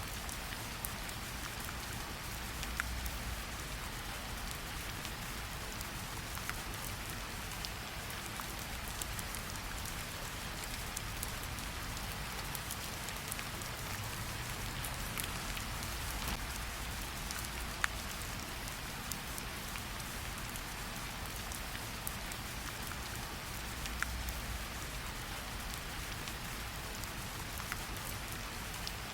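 Steady light rain pattering on tree leaves, with scattered individual drops ticking and dripping from the leaves.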